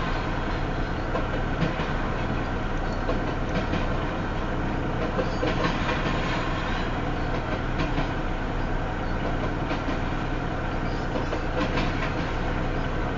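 Double-stack intermodal freight cars rolling past at about 19 mph: a steady rumble of wheels on rail, with occasional wheel clicks, as the train slowly picks up speed.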